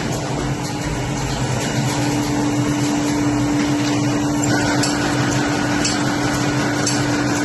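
Zahoransky Z.LION CNC brush making machine running: a steady mechanical hum with a constant tone that comes in about two seconds in, and faint sharp ticks about once a second.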